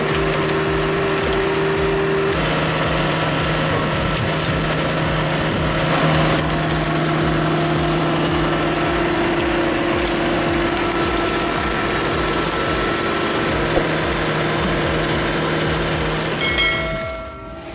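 Bell Super Splitter's turbo diesel engine running steadily under load while logs are forced through its four-way wedge, with wood cracking and splintering. The sound drops off sharply near the end.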